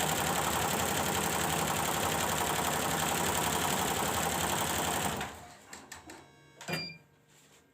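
Multi-needle computerized embroidery machine stitching at speed with a fast, steady mechanical rhythm, on a test run after the power supply in its drive unit was repaired. It stops about five seconds in, followed by a few light clicks and a brief high beep near the end.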